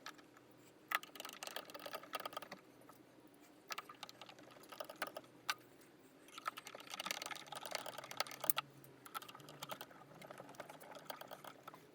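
Hand screwdriver driving screws into a plastic ride-on's front axle mounting, a run of small clicks and scrapes in about four separate spells.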